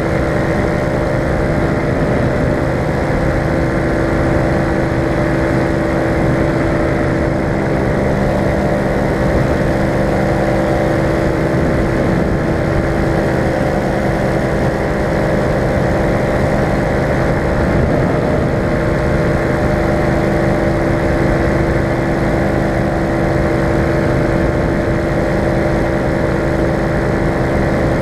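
Falcon four-stroke paramotor engine and propeller running steadily in flight, holding a constant pitch and level.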